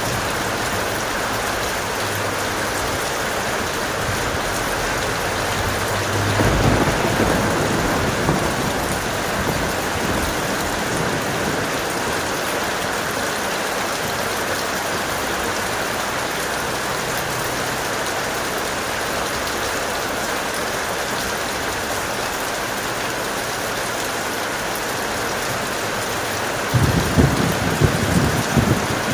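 Steady heavy rain, with a rumble of thunder about six seconds in and another starting near the end.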